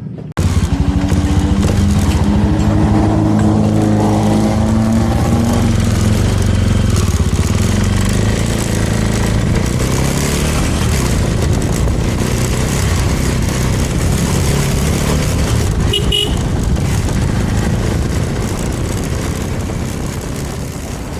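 Suzuki GSX250 motorcycle engine pulling away and accelerating, its pitch rising over the first few seconds, then cruising steadily with wind and road noise. A short horn toot comes about 16 seconds in.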